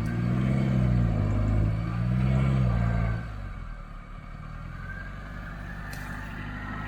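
Off-road vehicle engine revved twice, each rev rising and falling, then settling to a quieter idle about three seconds in.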